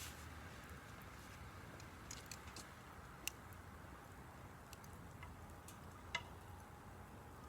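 Wood campfire crackling faintly, with scattered small pops and snaps; the sharpest come about three seconds in and again about six seconds in.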